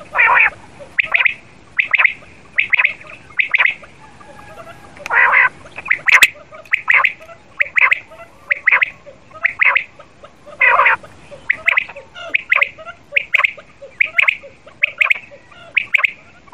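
Quail calling over and over, short high calls at roughly one a second, with a few louder, fuller calls mixed in.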